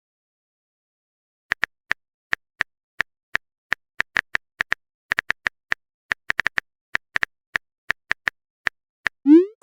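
A run of short, sharp clicks at an uneven pace, roughly four a second, starting about a second and a half in and stopping shortly before the end.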